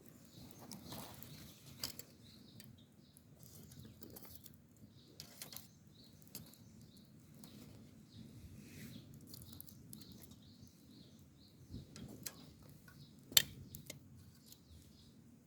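Wood campfire crackling, with scattered sharp pops; the loudest pop comes about 13 seconds in.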